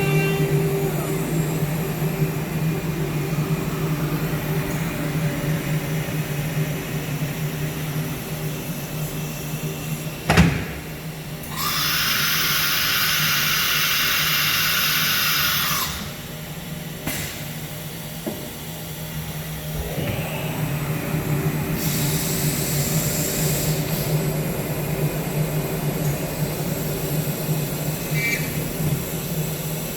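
CNC router with an automatic tool changer, running with a steady machine hum. About a third of the way in there is a sharp clunk, then a loud hiss for about four seconds. The hum dips and builds back up about two-thirds in, with a shorter high hiss soon after.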